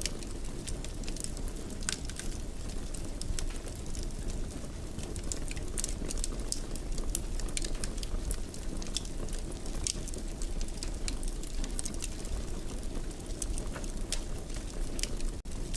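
Wood fire burning in a fireplace: a steady low rush of flame with frequent, irregular sharp crackles and pops from the burning wood. A split-second dropout comes near the end.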